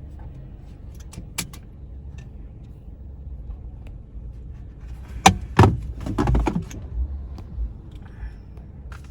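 Low steady rumble inside a parked car, with scattered clicks and knocks of handling in the cabin; a louder run of knocks and rattles comes about five to seven seconds in.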